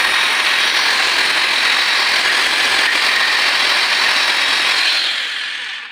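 A power tool running steadily with a loud hissing whine, then winding down and stopping near the end.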